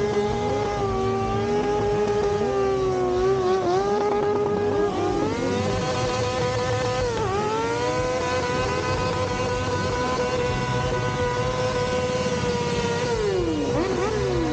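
Motorcycle engine held at high revs with a steady high note, dipping briefly about halfway through and climbing back up. Near the end another engine's note sweeps down and up over it.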